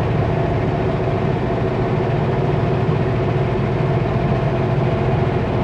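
Kenworth W900L semi truck's diesel engine running steadily under way, heard from inside the cab, with a low drone and road rumble.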